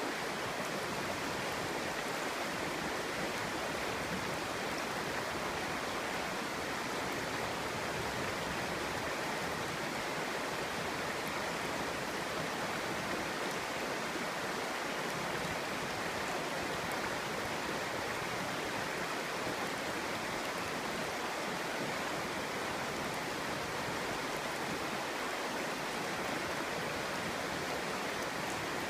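Clear stream babbling steadily, the water running over stones in an even, unbroken rush.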